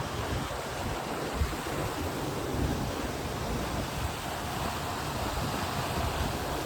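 Steady rush of wind and water, with wind buffeting the phone's microphone.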